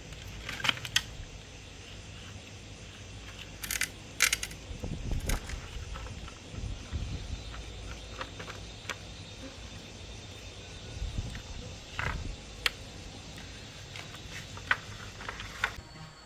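Scattered clicks and knocks, with two brief rattles about four seconds in, over a low rumble.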